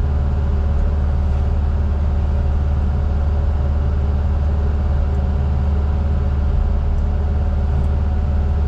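Heavy diesel engine of logging equipment running steadily at a constant speed, a loud, even, low drone.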